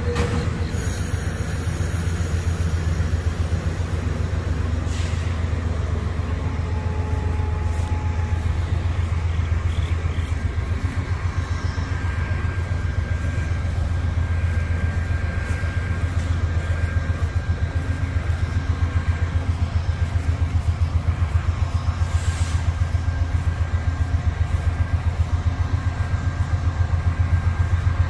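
Norfolk Southern diesel freight train going by, a steady low rumble that grows a little louder over the second half.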